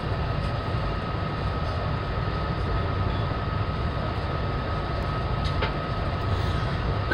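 Amtrak passenger train running at speed, heard from inside the coach: a steady low rumble of wheels on track with a thin, steady high whine over it and a couple of faint clicks.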